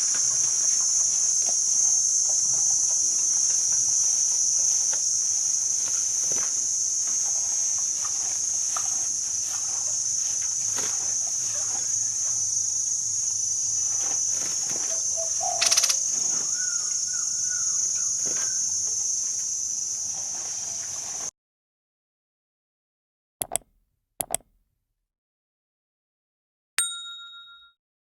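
Steady high-pitched insect drone with faint scattered outdoor sounds under it. It cuts off abruptly about 21 seconds in, followed by two short clicks and, near the end, a brief ringing tone that dies away.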